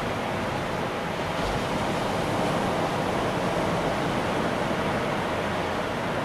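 Ocean surf breaking and washing steadily, with a slight swell in the middle and a brief low thump about a second and a half in.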